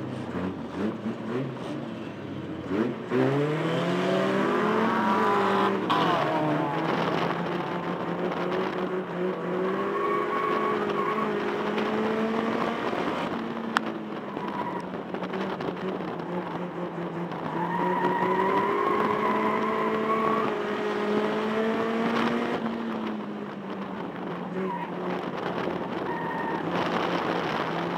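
Banger racing car's engine heard from inside the cabin under hard racing: it revs up steeply about three seconds in, changes gear, then runs hard at fairly steady revs, easing off for a bend near the end and picking up again. A single sharp knock sounds about halfway through.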